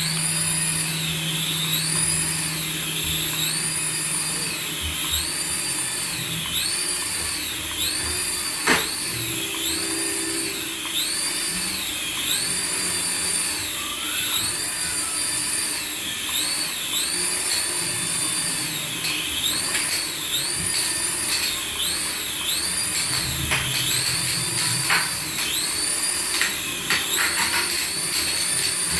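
Battery toy's electronic sound effect: a high, siren-like tone that rises and falls about once a second, starting abruptly and repeating steadily. There are a few sharp clicks along the way.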